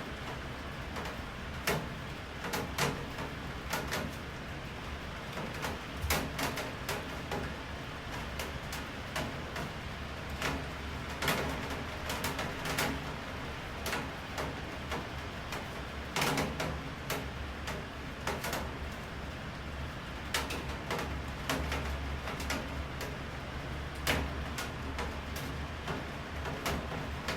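Steady rain, with frequent irregular sharp drops tapping on a hard surface and a low steady rumble underneath.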